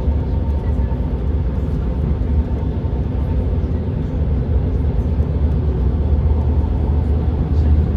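Car travelling at speed on a motorway: a steady low rumble of tyres and engine that holds even throughout.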